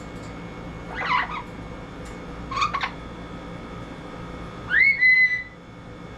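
Double yellow-headed Amazon parrot vocalizing: two short calls about a second and nearly three seconds in, then a louder whistle that rises and holds its pitch for about half a second near the end.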